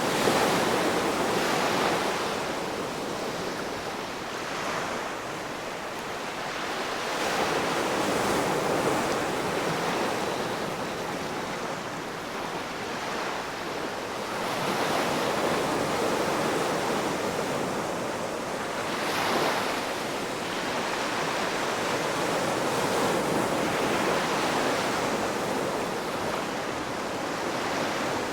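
Ocean waves breaking and washing onto the shore in a continuous surf, swelling and easing every few seconds with no steady beat.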